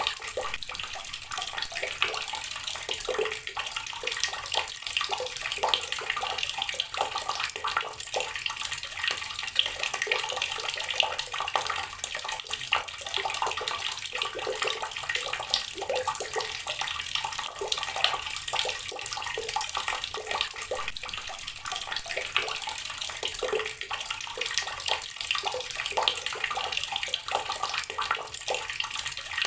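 Water running steadily from a tap and splashing onto rocks, a continuous dense spatter with no breaks.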